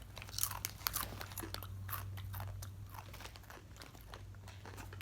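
Doritos Zesty Cheese tortilla chips being bitten and chewed close to the microphone: a run of irregular, crisp crunches. A steady low hum runs underneath.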